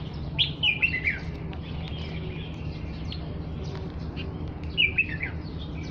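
A flock of small birds chirping: short falling chirps in quick clusters, the loudest about half a second in and again near the end, with scattered chirps between, over a steady low hum.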